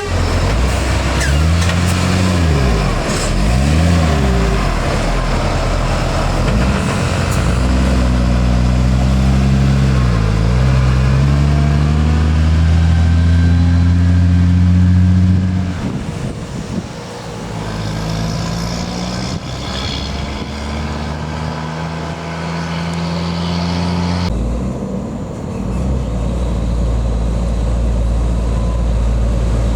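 Heavy diesel truck engines labouring up a steep climb. The engine note sweeps up and down, climbs steadily, then drops suddenly about halfway through as a gear is changed, and the low engine rumble carries on after.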